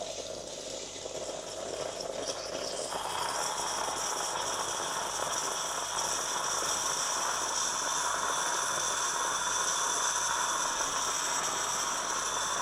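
Pod coffee machine brewing: a steady hiss and hum of its pump pushing hot water through the coffee cartridge into the cup, growing louder about three seconds in.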